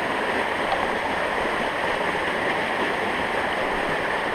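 Creek water running steadily, an even hiss with no breaks.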